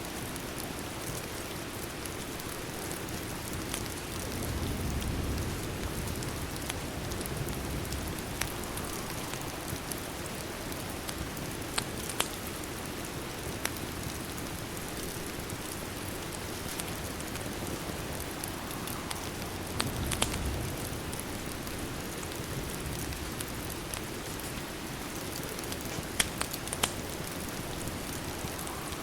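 Steady rain hissing against a window, mixed with a crackling fireplace that gives a few sharp pops. Twice a soft low rumble swells up for a second or two.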